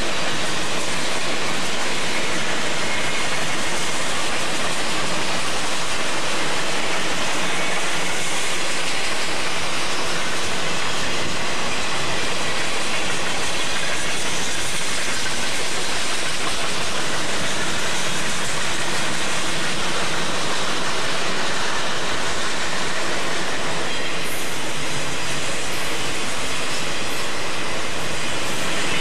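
Cars of a passing freight train (tank cars, covered hoppers, autoracks) rolling by on the rails: a steady, loud rush of wheel and rail noise.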